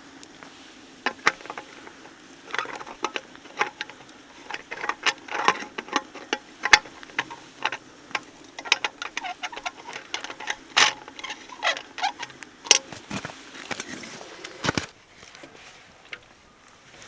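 A long run of irregular sharp clicks, taps and light knocks, a few louder than the rest, as of small objects being handled.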